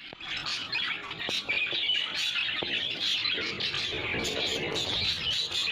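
Budgerigars chattering and chirping, a dense, continuous twitter that starts abruptly.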